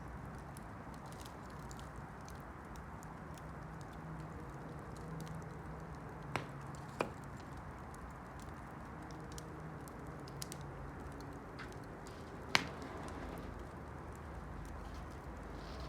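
Campfire burning with a steady low rush, broken by a few sharp crackling pops from the burning wood. The loudest pop comes about three-quarters of the way through.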